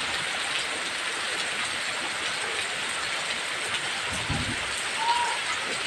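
Heavy rain falling with a steady, even hiss, with a brief low rumble about four seconds in.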